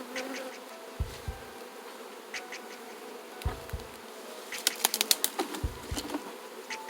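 A disturbed colony of honeybees buzzing steadily in a loud swarm around their opened nest. About five seconds in there is a quick run of sharp clicks, with a few low thumps in between.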